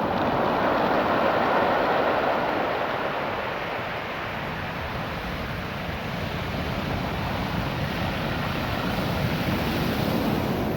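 Ocean waves washing over a beach of small, naturally rounded rocks, the water rattling and hissing through the stones. A wave swells loudest a second or two in, eases off, and another builds near the end.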